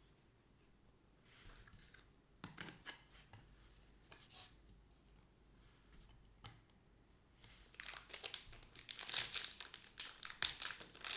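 A few light taps and clicks of cards being handled, then from about eight seconds in the crinkling of a foil trading-card pack being torn open.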